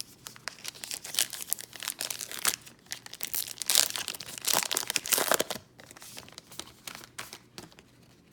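Plastic wrapper of a trading card pack being torn open and crinkled in the hands, with dense crackling that is loudest through the middle and dies away near the end.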